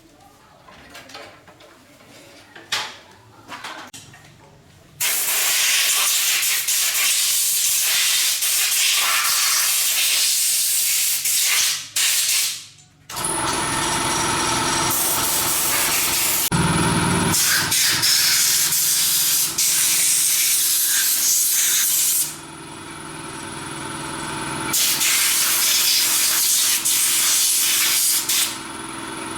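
Workshop tool work on mower parts: a few seconds in, a long burst of loud, even hissing like a spray or air blast, then after a short break a motor-driven tool running with hiss and steady whine, easing off for a couple of seconds and starting again.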